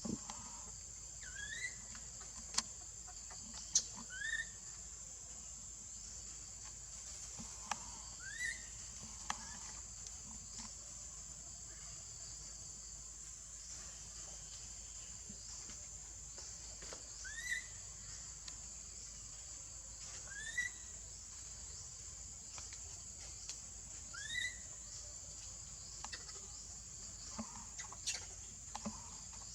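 A steady, high-pitched drone of insects, with a short rising chirp-like animal call repeated every two to three seconds and a few sharp clicks or snaps.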